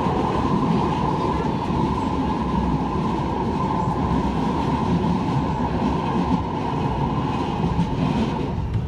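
Manchester Metrolink tram running, with a steady high-pitched whine over a low rumble.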